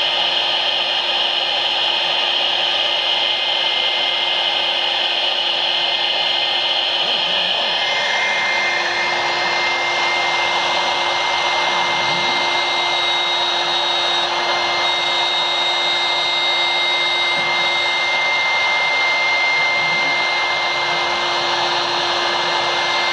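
BMG-2040 CNC router's spindle running and cutting aluminium composite panel, a loud steady whine with a hiss of cutting, its tone shifting about eight seconds in.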